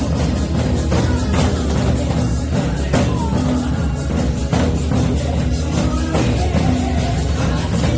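Live music with a steady beat, about two beats a second, over a strong bass line.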